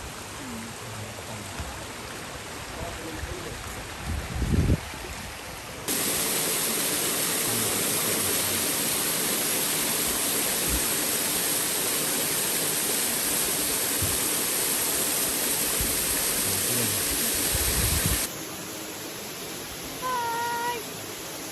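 Steady rush of water from a mountain waterfall, jumping noticeably louder about six seconds in and dropping back about eighteen seconds in. A short low thump comes just before the louder stretch, and a brief pitched call sounds near the end.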